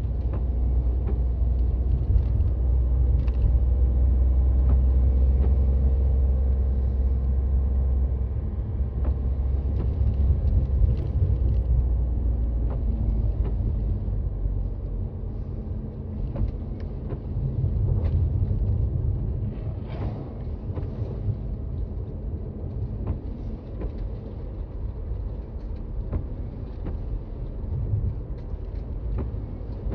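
Toyota Raize Z 4WD driving on a snowy road: a low road and tyre rumble with the engine's drone, heaviest over the first several seconds and then easing. Short light clicks are scattered throughout.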